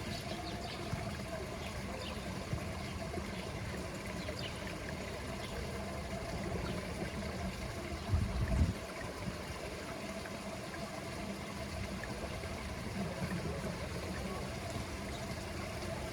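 Water trickling steadily into a pool over a faint low hum, with a brief low rumble about eight seconds in.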